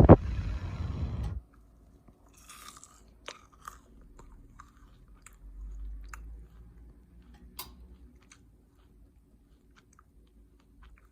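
Someone eating: a loud crunchy bite and chewing in the first second or so, then quieter chewing with small mouth clicks.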